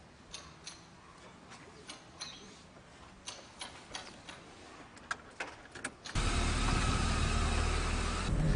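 Scattered small clicks and knocks inside a car, then about six seconds in a Chevrolet Classic sedan's engine comes in suddenly, loud, and runs steadily.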